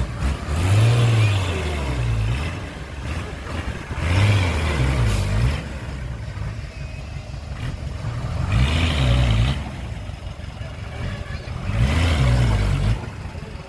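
Diesel engine of a Komatsu D20P small crawler bulldozer revving up and dropping back four times, each surge lasting a second or two, with a lower steady run between the surges.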